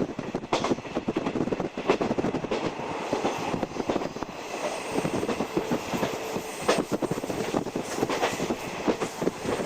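A 50-series passenger coach running on the line, heard from inside the coach: a steady rumble with a dense, uneven clatter of wheels knocking over rail joints.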